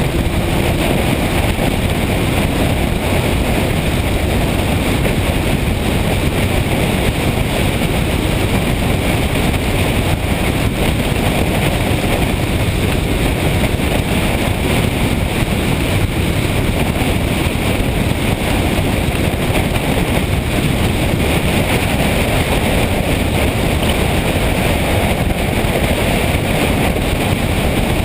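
Steady wind rush on the microphone, mixed with motorcycle road and engine noise, from riding at speed.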